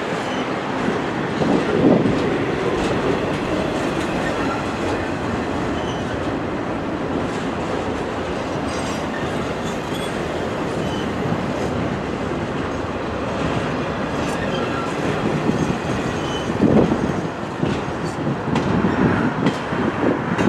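Double-stack intermodal container well cars rolling past close by: a steady rumble and clatter of steel wheels on the rails, swelling louder about two seconds in and again near the end.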